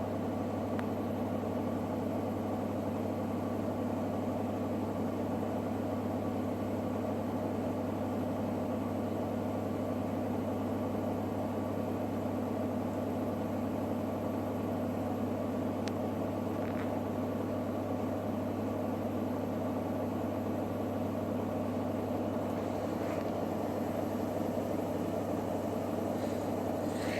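Electrolux WD41A84160 washing machine running with a steady, even hum and a few faint ticks.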